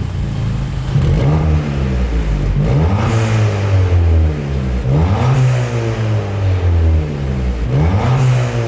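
Mk7 Ford Fiesta ST's 1.6-litre turbocharged four-cylinder engine being revved through its exhaust in short blips about every two seconds, each rising sharply and falling back to idle.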